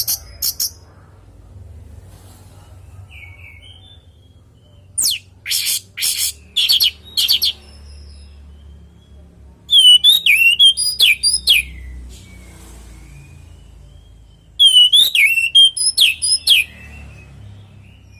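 Orange-headed thrush singing: a few short, harsh, scratchy notes, then two loud phrases of rapid warbling whistles about five seconds apart.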